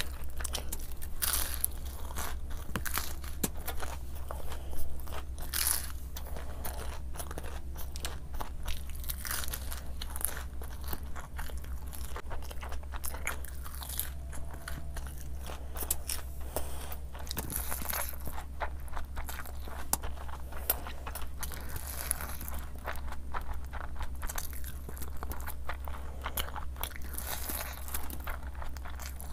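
Close-miked eating: a person chewing handfuls of spiced rice and chicken, with many quick, irregular crunches, over a steady low hum.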